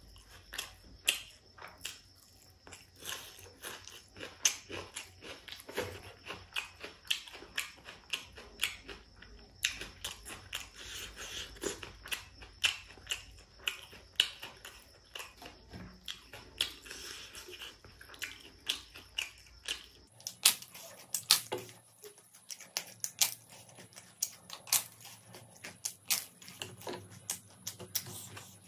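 Close-miked chewing of pork curry and rice eaten by hand: a dense, irregular run of sharp mouth clicks and smacks.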